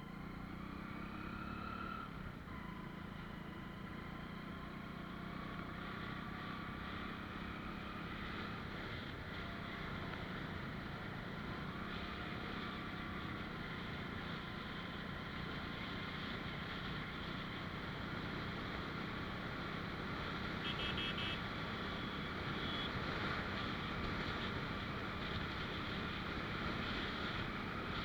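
Motorcycle engine running steadily with wind and road noise while riding, slowly getting louder. A short high tone about three-quarters of the way through.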